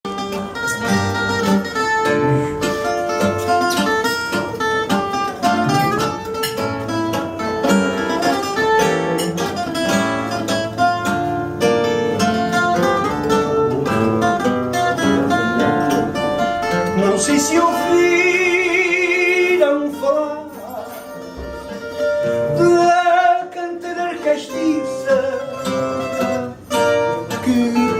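Instrumental fado introduction on a Portuguese guitar (guitarra portuguesa) with a fado viola (classical guitar) accompanying, played as a run of quick plucked melody notes over chords, easing off briefly a little after two-thirds of the way through.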